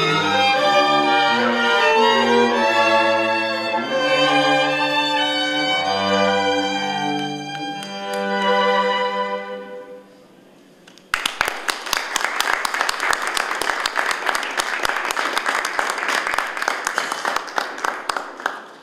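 String quartet playing a slow, sustained passage on violins, viola and cello, ending about ten seconds in. After a brief pause, audience applause follows.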